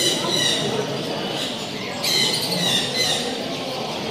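Parrots squawking with harsh, screechy calls near the start and again about two seconds in, over a steady background murmur of voices.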